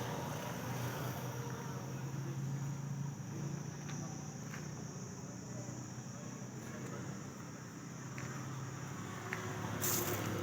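Sonalika 745 tractor's diesel engine idling steadily, with a high insect-like chirring behind it and a sharp click near the end.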